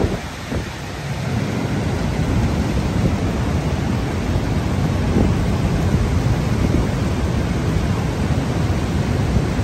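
Loud, steady rushing and rumbling of a flooded torrent, a constant roar of noise without a break.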